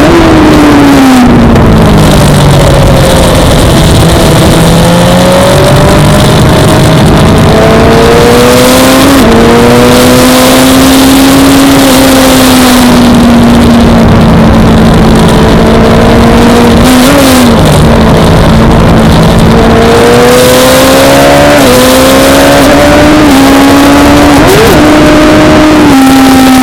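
Suzuki GSX-R600 600 cc inline-four sportbike engine running hard on track. The engine note falls over the first two seconds as the bike slows, then climbs and holds high, with short dips in pitch at gear changes several times, over a steady rush of noise.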